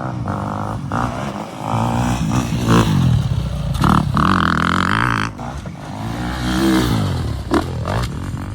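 Four-wheeler (quad) engine being ridden, its pitch rising and falling as the throttle is worked, loudest around the middle.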